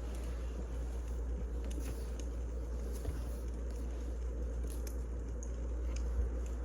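Burning firewood crackling, with scattered soft pops and snaps over a steady low hum.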